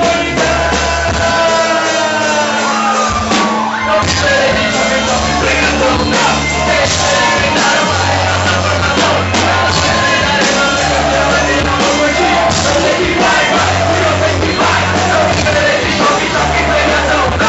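Live rock-style music with drums and bass, and voices singing and shouting along, echoing in a large hall.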